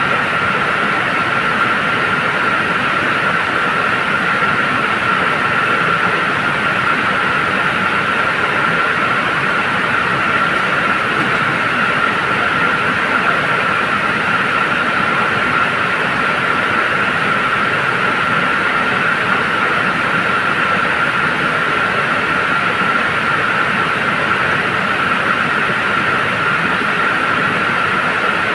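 Truck running, a steady, unbroken rush of engine and road noise with a constant high whine over it.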